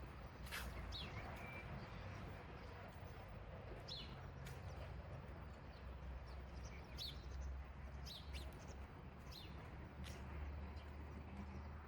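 Birds chirping: short, sharp calls every second or so, over a steady low background rumble of the city.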